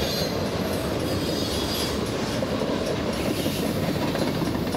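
Freight train rolling past: a steady rumble of steel wheels on the rails.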